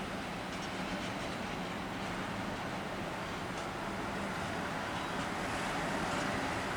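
Train running on the line: a steady rumble with a few faint clicks, growing slightly louder toward the end.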